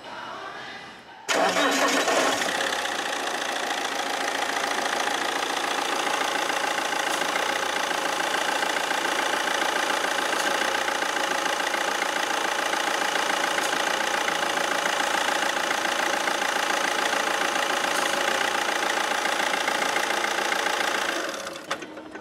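Diesel engine of an Alfa Romeo 159 cranking and catching about a second in, then idling steadily. It is switched off near the end.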